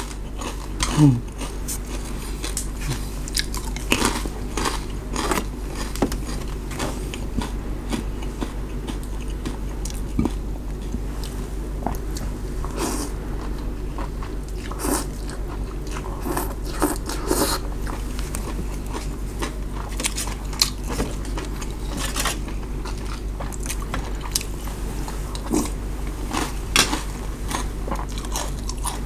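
Close-miked eating: chewing with scattered crisp crunches from bites of crispy fried salmon skin, over a steady low hum.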